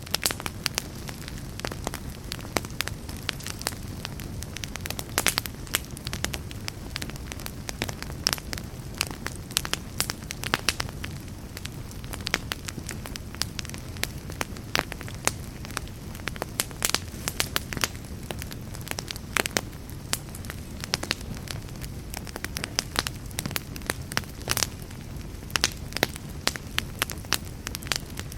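Wood fire crackling and popping in a fireplace: a steady low rumble of burning with frequent sharp, irregular pops and snaps.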